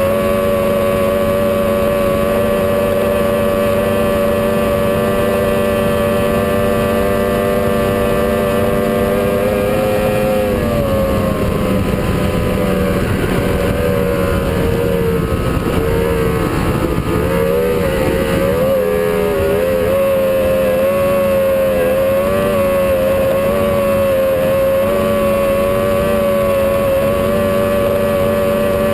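A 21-foot Challenger performance boat's engine running at speed, loud and steady. About ten seconds in the note dips, then wavers up and down for several seconds before settling steady again.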